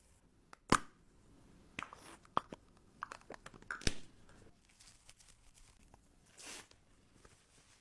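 Close-up crackling and scratching of a saline-soaked cotton swab wiping inside an ear canal during ear cleaning: a sharp crackle just under a second in, several more over the next three seconds, then a soft swish.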